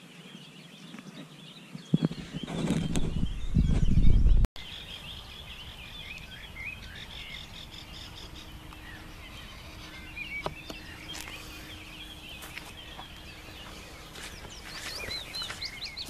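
Many small birds singing and chirping by a reedy lake. About two seconds in, a loud low rumble, the loudest thing here, builds for a couple of seconds and then cuts off suddenly.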